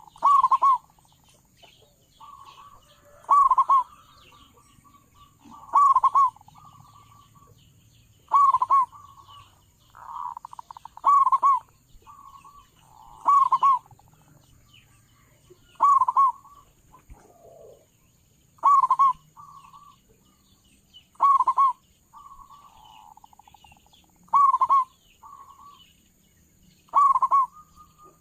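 Zebra dove (perkutut) cooing: a quick stuttering run of notes ending in a loud coo, repeated about every two and a half seconds.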